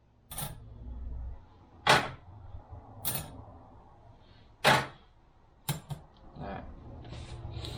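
Transmission clutch steels and friction plates clacking as they are handled and laid down: about five sharp metallic clacks spaced roughly a second apart, with softer shuffling between them.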